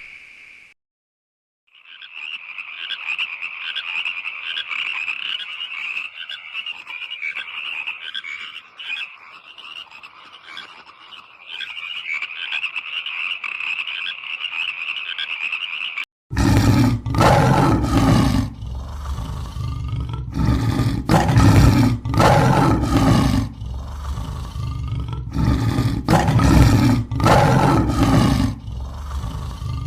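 Farm animal calls. First a steady, high, finely pulsing chorus, then from about halfway a run of loud, deep calls about once a second.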